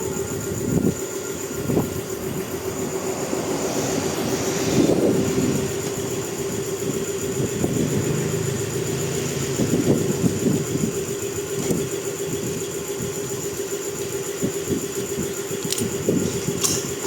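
A heavy vehicle running, with a steady hum and irregular knocks and rattles.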